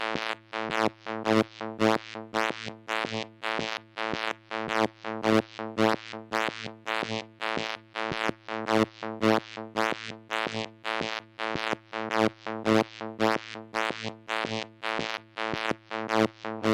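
Moog Mother-32 analog synthesizer playing a fast, uneven train of short notes on one fixed pitch, about three a second, each note differing in loudness and brightness. The variation comes from modulation by a Comdyna GP-6 analog computer producing chaotic signals.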